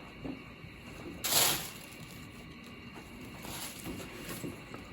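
Packaging being handled: a short rustling scrape about a second in, then fainter rustles later.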